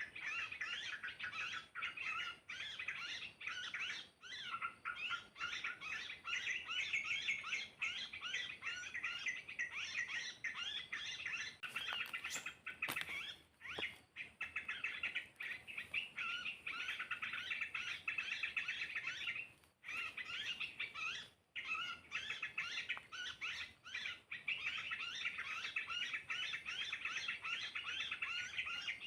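Small birds chirping rapidly and continuously in a dense chatter, with two brief lulls about 13 and 20 seconds in.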